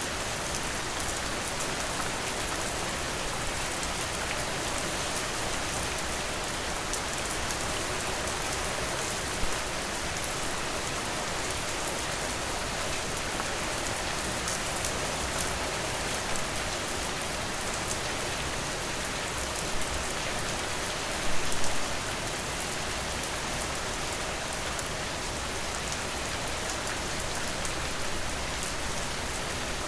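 Steady rain falling on a porch, with a few brief louder pops about ten seconds in, around twenty seconds, and a short cluster just after.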